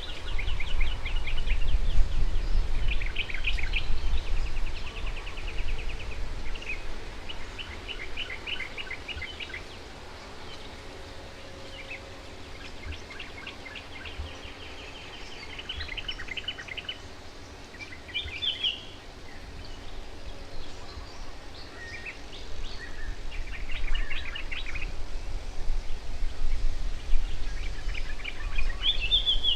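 Wild songbirds chirping and trilling in quick runs of short, high notes, several series following one another and overlapping, over a steady low rumble.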